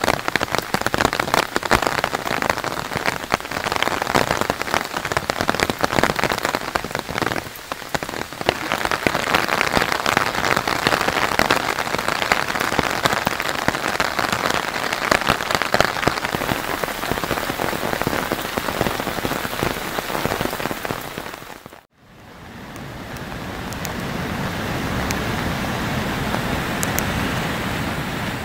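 Heavy typhoon rain pouring onto bamboo foliage and a paved path, a dense patter of countless drops that swells and eases. About 22 seconds in it cuts to the smoother, steady rush of a river in flood.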